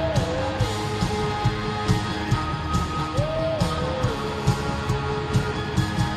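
Live rock band playing: a steady drum beat of about two hits a second under sustained guitar chords, with a short rising-and-falling melodic phrase heard twice.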